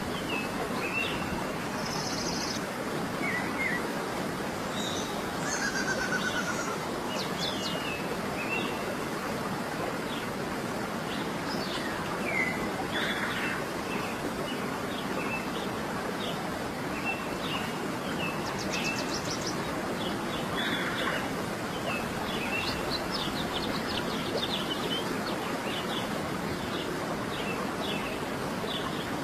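Steady rushing of a stream, with many short bird calls and chirps over it.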